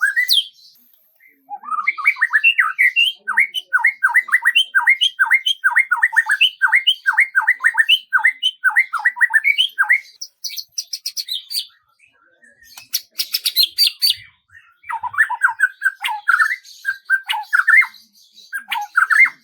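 A songbird singing: a long run of quick, repeated falling notes, about three a second, then a short higher trill, a brief harsh rasping burst, and a stretch of varied chattering phrases near the end.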